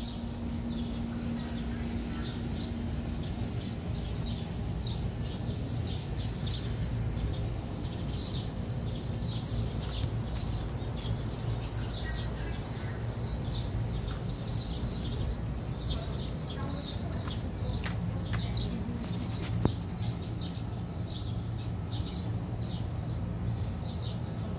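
Small birds chirping over and over, short high chirps two or three a second, over a steady low outdoor rumble.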